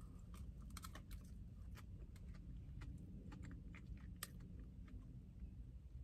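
A person chewing a bite of glazed donut, close to the microphone: faint wet mouth clicks at irregular intervals, with a sharper click about four seconds in.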